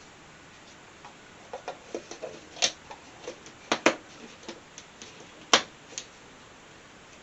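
Irregular light clicks and taps of paint-pouring supplies being handled, a dozen or so, with the sharpest knocks about midway and again about two-thirds of the way in.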